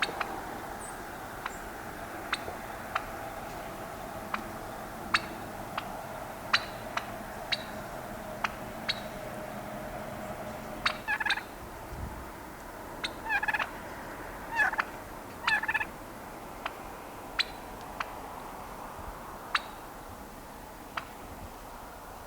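Domestic poultry calling: four short rattling calls come in a cluster around the middle, among scattered sharp ticks.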